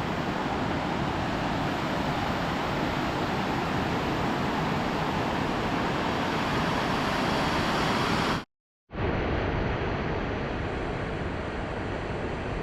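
Crystal Creek Falls, a man-made waterfall, with water pouring down in a steady, loud rush. About two-thirds of the way through it cuts out for half a second and then comes back.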